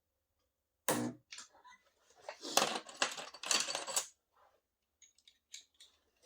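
Metal tools and dent-puller parts being handled, with a sharp knock about a second in and a couple of seconds of clattering, followed by a few light clicks near the end.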